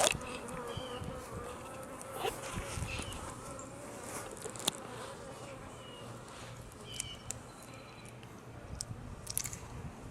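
Honey bees buzzing around an open hive, a wavering hum that rises and falls in pitch as bees fly close by. A few short sharp clicks sound over it, the loudest about halfway through and a cluster near the end.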